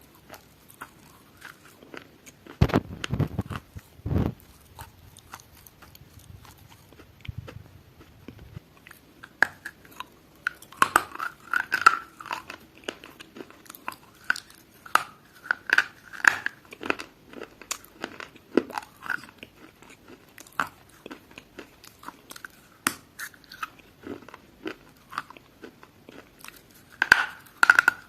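A person biting and chewing crunchy food close to the microphone: irregular crisp crackles and crunches, with two deeper thumps about three and four seconds in.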